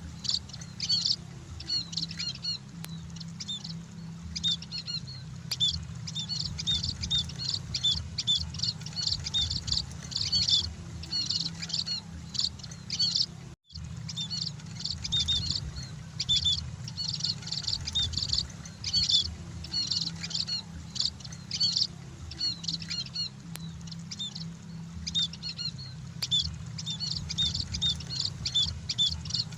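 A flock of emprit munias chirping continuously in quick, high, overlapping chirps over a steady low hum. The sound cuts out completely for a moment about halfway, then the chirping carries on.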